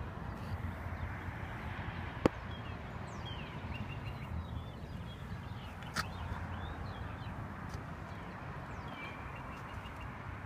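Small birds chirping over a steady low rumble, with two sharp clicks: a loud one about two seconds in and a softer one about six seconds in.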